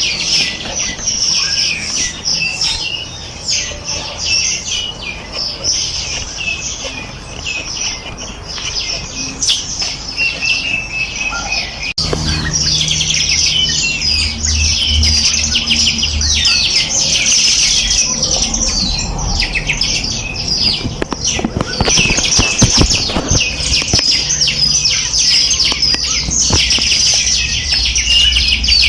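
A chorus of many small songbirds chirping and trilling at once, fast high notes overlapping densely. It becomes louder and busier after an abrupt change about twelve seconds in.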